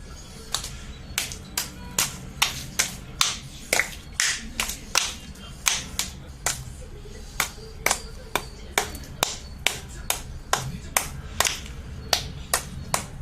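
A series of sharp clicks or taps, irregular at about two to three a second, over a faint low hum.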